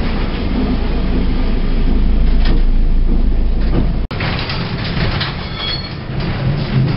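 Lisbon tram rumbling and rattling along its rails, heard from on board. About four seconds in the sound cuts out for an instant, then the ride noise resumes with a few brief high squeals.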